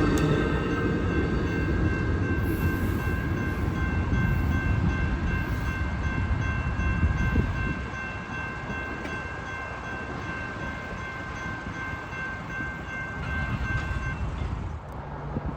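A train rumbling past, its rumble dropping off about halfway through, with a steady high ringing tone held over it that stops near the end.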